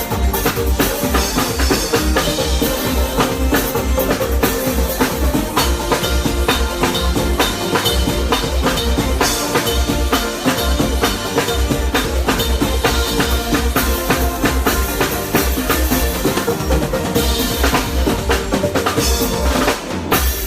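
Live band playing a steady groove, drum kit and bass prominent, that cuts off at the very end.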